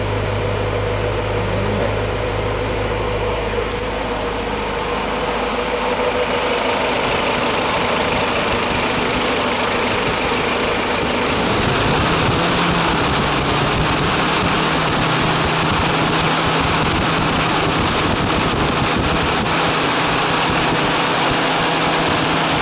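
Willys L-head four-cylinder engine idling steadily at operating temperature, the thermostat open. About halfway through the sound shifts and a steadier hum comes in.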